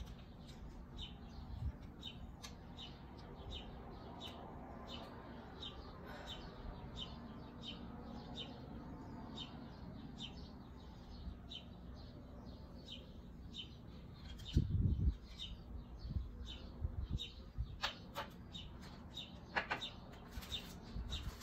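A bird chirping over and over, evenly spaced at about one and a half short high chirps a second. A low thud of handling comes about two-thirds of the way through, and a few sharp clicks come near the end.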